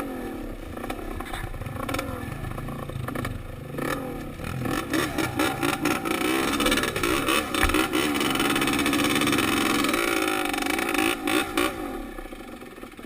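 Dirt bike engine on a trail ride, heard from the rider's helmet, its revs rising and falling as the throttle is worked. It gets louder and higher about four seconds in, then eases off near the end.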